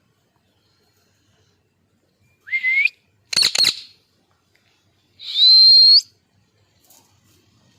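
Ring-necked parakeet calling three times: a short rising whistle, then a quick double screech, then a longer whistle that rises and holds its pitch.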